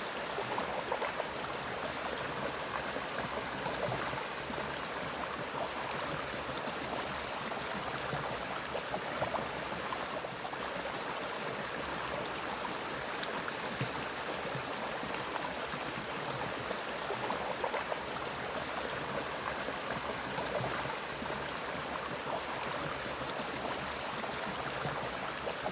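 Forest stream flowing steadily over rocks, an even rushing and gurgling without pause. A steady high-pitched whine runs over it.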